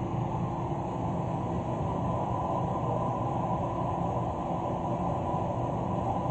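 Steady low rumbling background noise at an even level throughout.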